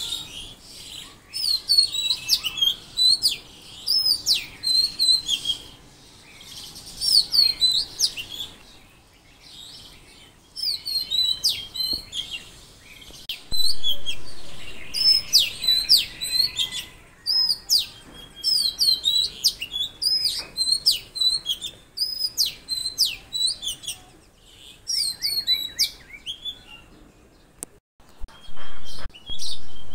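Several songbirds chirping and singing busily, in quick series of short, sharply down-sweeping high notes with brief lulls. Underneath is a faint, steady rush of waterfall water.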